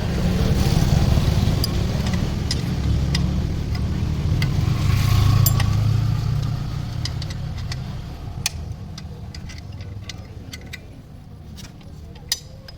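A motor vehicle engine rumbling, swelling twice and then fading away, with light metallic clicks and taps of hand tools.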